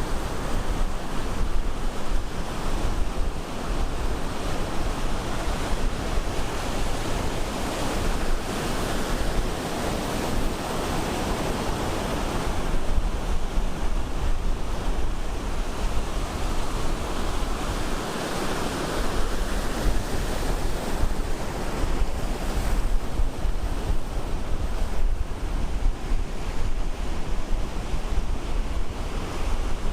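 Ocean surf breaking on a beach: a continuous wash of waves that swells and eases every several seconds as waves break. Wind buffets the microphone, adding a low rumble underneath.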